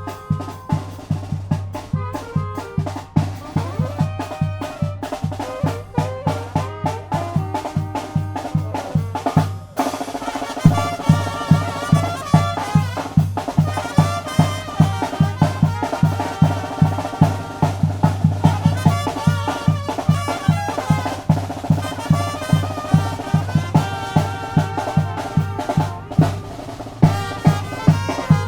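Tamborazo band playing live: brass melody over a steady beat on the tambora bass drum and snare. About ten seconds in the music breaks off briefly and comes back louder.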